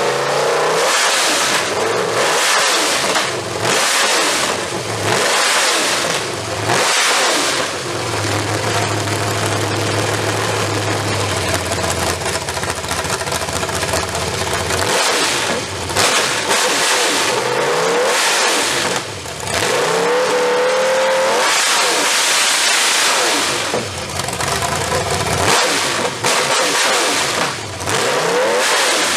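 Freshly built engine on an engine stand during its first runs, revved hard again and again, its pitch sweeping up and falling back between blips. From about eight to twelve seconds in it holds a lower, steady speed before the revving resumes.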